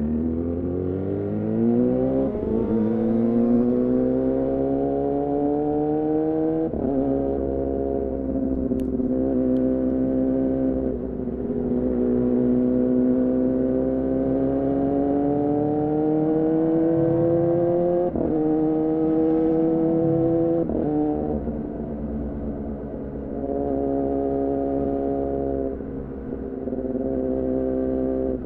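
2014 Yamaha R6's inline-four engine through an R9 titanium muffler on a Leovince header, accelerating with rising revs and quickshifted upshifts, each a short break and drop in pitch, about four times, then holding a steadier speed near the end.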